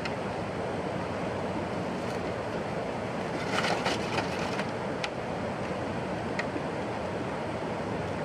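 Steady outdoor rushing noise, with a brief patch of crackling and rustling about three and a half seconds in and two single clicks after it.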